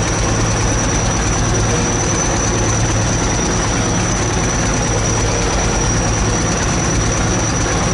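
ChTZ T-170 bulldozer's diesel engine running steadily at a constant speed, with a thin, steady high whine over the low engine hum.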